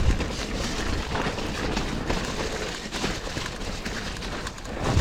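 Mountain bike riding down a wet, muddy trail: a steady rumble and hiss of tyres and wind, broken by frequent knocks and rattles from the bike.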